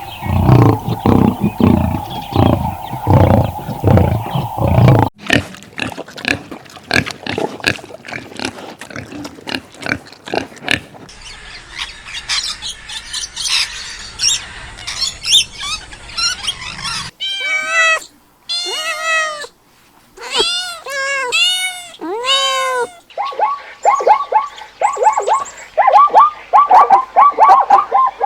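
A string of different animal calls cut one after another. It opens with low, rhythmic grunting pulses, then a noisy stretch of calls, then a run of short rising-and-falling calls, and ends with fast, repeated clucking-like calls.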